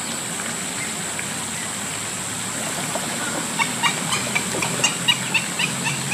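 Short bird chirps in a quick, irregular run, several a second, starting about halfway through, over a steady outdoor hiss.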